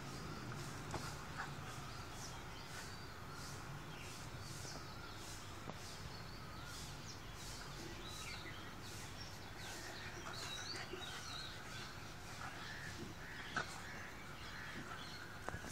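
Faint outdoor background with birds calling, short chirps repeating through it.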